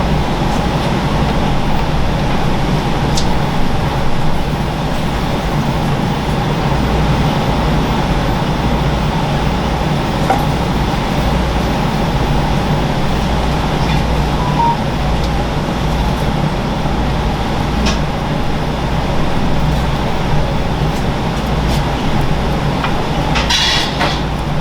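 Steady, loud mechanical hum and rumble with a few faint clicks, and a short crackle near the end.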